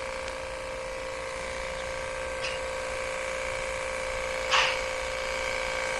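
A 1200 W wet-and-dry vacuum cleaner's motor running with a steady, even whine. A short rushing burst comes about four and a half seconds in.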